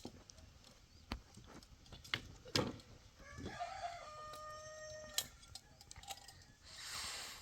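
A rooster crowing once, a single long held call starting about three and a half seconds in. Around it come a few sharp knocks and clinks, the loudest a couple of seconds before the crow, and a short hiss near the end.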